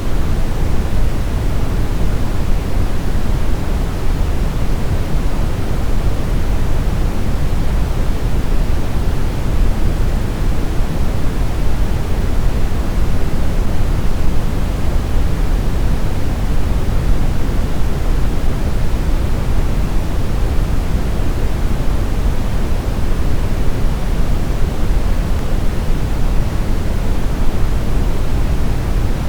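Steady synthetic brown noise: an even, deep rumbling hiss with most of its weight in the low end, unchanging throughout.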